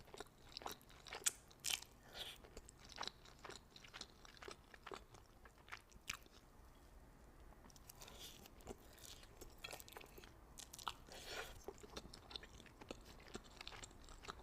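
Close-miked eating of spicy Buldak noodles: soft wet chewing and slurping with many small clicks and smacks, loudest in the first couple of seconds.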